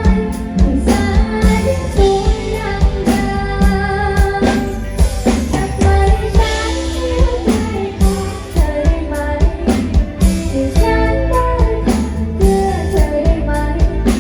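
A woman singing a Thai pop song over band accompaniment of guitar and drum kit, with a steady beat.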